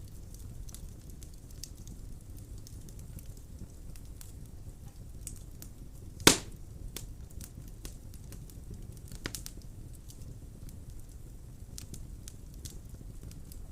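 Wood fire burning in a fireplace: a steady low rumble with scattered crackles, and one loud sharp pop about halfway through.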